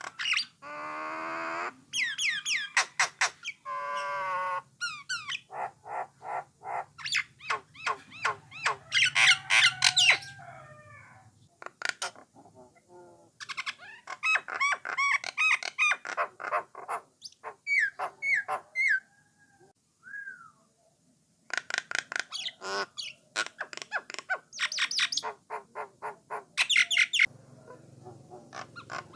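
Jalak Nias (jalak coklat) myna singing a long, varied song: quick runs of sharp repeated notes mixed with rising and falling whistles and warbled phrases, broken by short pauses about twelve and twenty seconds in.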